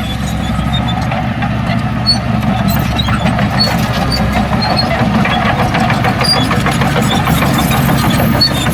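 Heavy diesel earthmoving machinery running steadily, with a dense metallic rattle and a few short high squeaks throughout.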